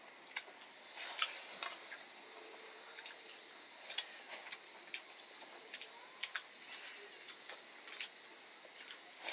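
A man eating: quiet chewing with scattered short wet clicks and smacks of the lips and mouth, over a faint steady hiss.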